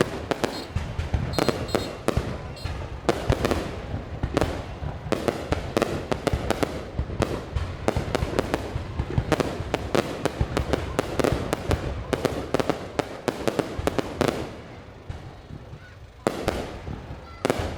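Fireworks bursting in rapid, irregular bangs, many overlapping. The bangs ease off briefly about fifteen seconds in, then pick up again.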